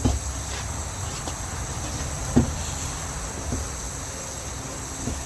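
Steady insect chirring in the background, with a single light knock about halfway through.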